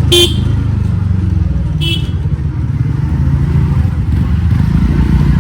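TVS Ntorq scooter's single-cylinder engine running steadily while riding, with a horn beeping twice briefly, about a second and a half apart.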